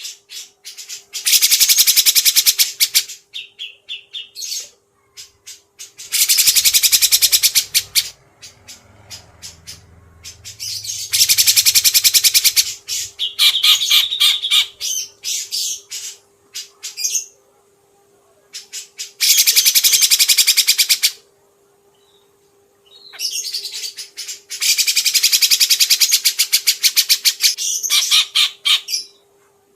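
Songbird song: loud, very fast rattling trills in phrases of a second and a half to two seconds, about five of them with short pauses between, as used in a song-tutor recording for training caged songbirds.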